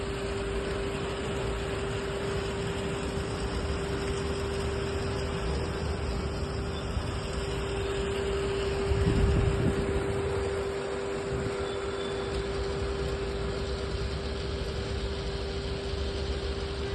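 Steady road-traffic noise with a constant droning hum; a louder low rumble swells and fades about nine seconds in, as of a vehicle passing.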